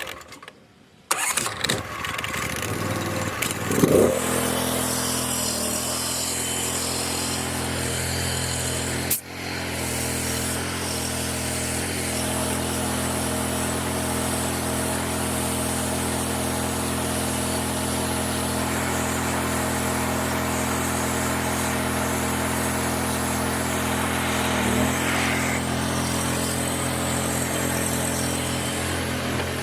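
Gas engine of a pressure washer starting about a second in, briefly revving up, then running steadily at speed, with a brief dip about nine seconds in.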